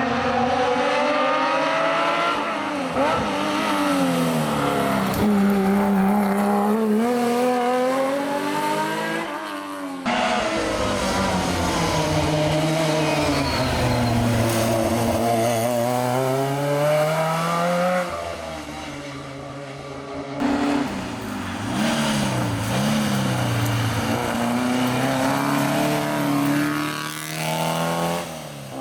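Historic rally cars at full stage pace, engines revving hard, the pitch climbing and dropping again and again through gear changes and braking. The sound changes abruptly about ten seconds in and again about twenty seconds in, as one car gives way to the next.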